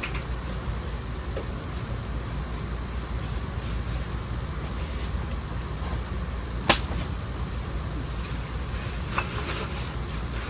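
Campfire giving two sharp pops over a steady low rumble. The louder pop comes about two-thirds of the way through and a smaller one near the end.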